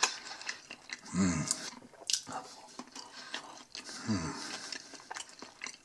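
A person chewing a mouthful of chili cheese fries with soft, wet mouth sounds and small clicks, and two brief voice sounds about a second in and about four seconds in.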